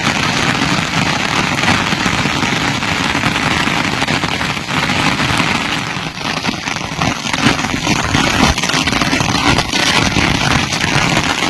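Heavy rain falling, a loud, steady rush of hiss and patter.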